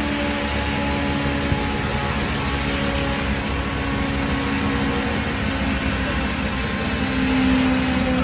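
Car engine running at steady revs, with a held drone that steps up slightly in pitch and loudness about seven seconds in.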